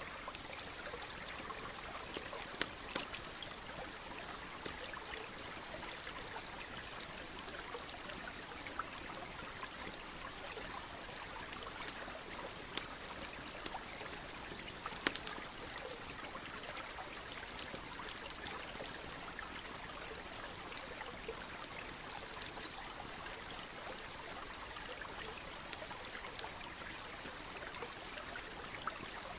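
Steady trickling of a nearby stream with a wood campfire crackling over it: scattered sharp pops, a few together about three seconds in and a louder pop about halfway.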